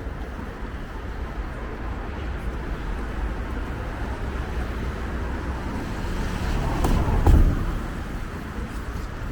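City street traffic, a steady rumble of passing vehicles, with one vehicle passing close and loudest about seven seconds in.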